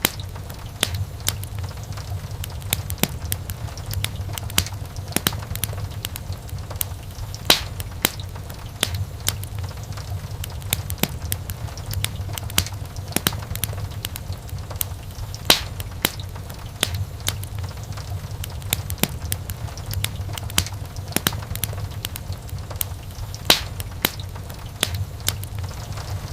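Wood fire crackling in a fireplace: frequent small snaps and pops over a steady low rumble, with three louder pops about eight seconds apart.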